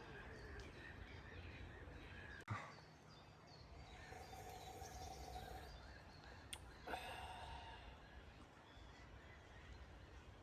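Quiet forest ambience with a few short bird calls. A single sharp knock comes about two and a half seconds in.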